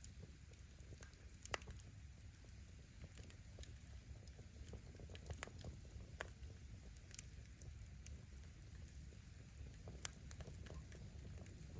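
Wood campfire crackling: firewood snapping and popping at irregular intervals, two pops louder than the rest, over a low steady rumble of the burning fire.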